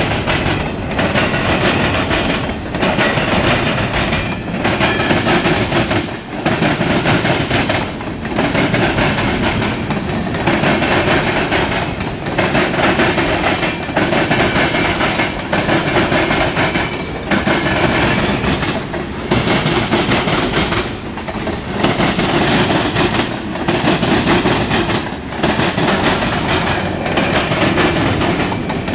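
Freight train cars (boxcars, tank cars and covered hoppers) rolling past close by: a loud, continuous rumble and rattle of steel wheels on rail, rising and falling in a regular beat about every two seconds as the cars go by.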